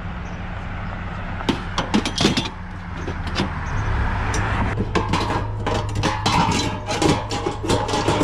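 Pickup truck driving, its engine running with a steady low hum, while loose scrap metal in the bed rattles and clanks, more busily from about halfway through.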